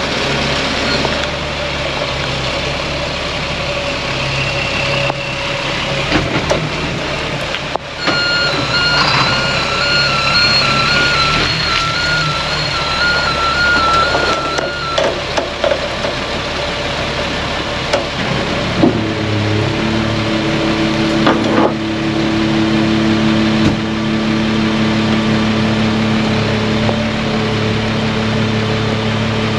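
Dump truck engine running while its reversing alarm beeps in two stretches, at the start and again from about 8 to 15 seconds in. From about 19 seconds in, the engine settles into a steady, higher, louder note.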